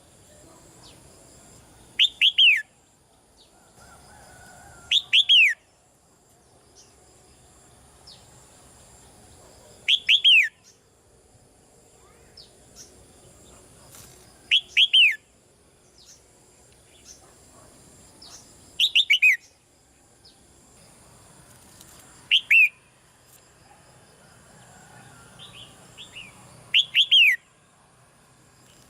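Red-whiskered bulbul calling: short bursts of two or three quick notes, each falling in pitch, repeated seven times at intervals of about four to five seconds.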